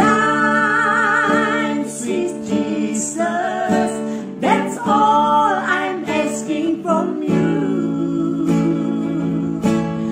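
A solo singer over strummed acoustic guitar, holding long notes with a wavering vibrato.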